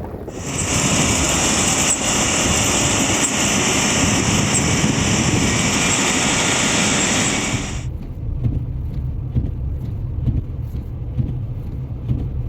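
Vehicle noise on a snowy highway: a loud hissing rush starts abruptly and cuts off sharply after about seven and a half seconds, leaving a low rumble.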